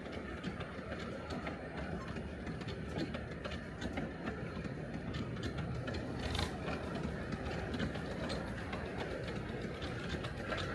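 Miniature steam train running along the track, its wheels clicking steadily over the rail joints, with one sharper click about six seconds in.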